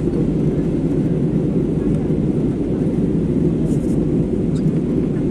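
Steady, low rumble of an Airbus A320neo's engines and airflow heard inside the passenger cabin in flight.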